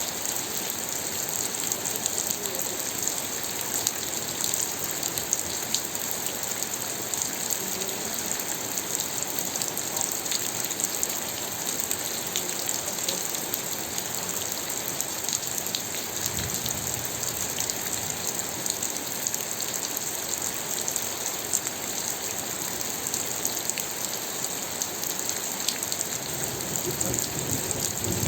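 Steady rainfall, with drops pattering and ticking on a surface. A low rumble swells about sixteen seconds in and again near the end.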